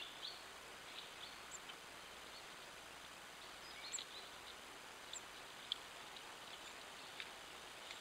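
Small songbirds giving scattered short, high chirps and ticks over a steady hiss, with one sharper, louder tick partway through.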